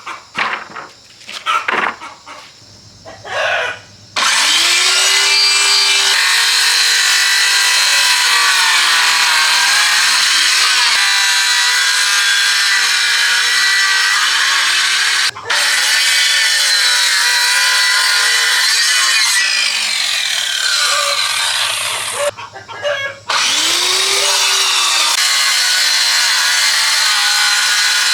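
A rooster crowing in the first few seconds. Then, about four seconds in, a power saw starts cutting wood and runs loudly and continuously, its pitch sagging and recovering under load. It stops twice for a moment.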